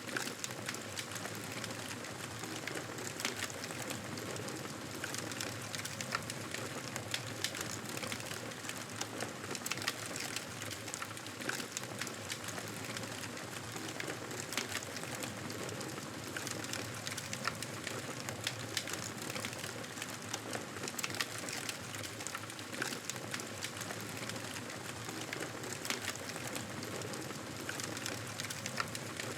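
Wood fire in a fireplace crackling steadily, with frequent small pops and snaps over a soft hiss.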